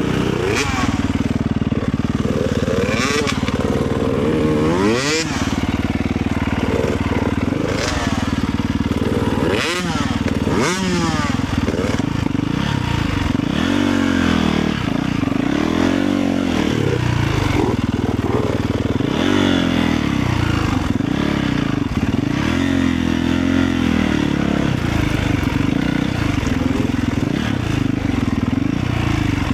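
Motorcycle engine running under way, its pitch rising and falling again and again with the throttle and gear changes.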